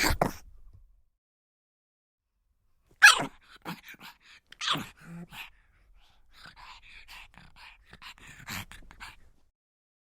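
Pug dog vocalizing: after a short pause, a loud sharp yelp or bark about three seconds in and a few more short yelps, then a run of softer, quick whimpering sounds.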